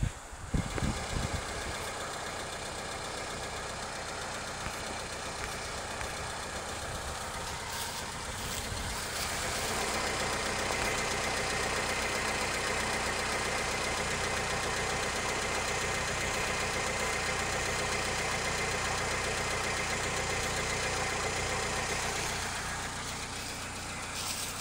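A car engine idling steadily. It grows a little louder and brighter about nine seconds in.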